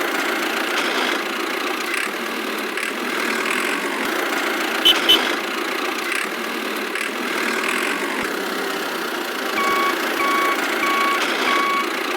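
A miniature DIY construction vehicle's motor runs steadily. In the last two and a half seconds a reversing alarm gives four evenly spaced beeps, and a couple of clicks sound about five seconds in.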